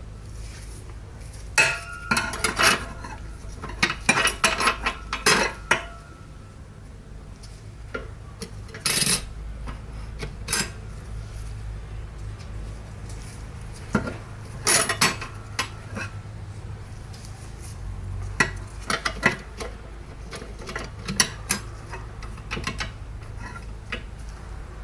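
Metal parts and tools clinking and clattering as they are handled on a bench during an automatic transmission rebuild. The knocks come in irregular clusters, some with a short metallic ring, over a steady low hum.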